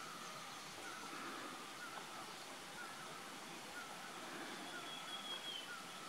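A bird repeating a short, faint call note about once a second. A thin, higher whistle from another bird is held for about a second starting about four and a half seconds in.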